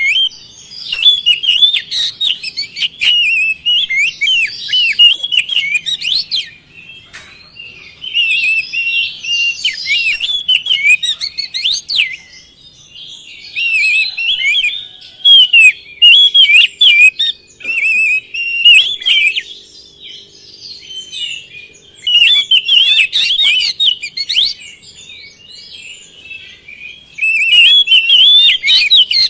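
Oriental magpie-robin (kacer) singing loudly in full song: rapid, varied whistled phrases of sweeping notes and trills, delivered in bursts of several seconds with short pauses between them.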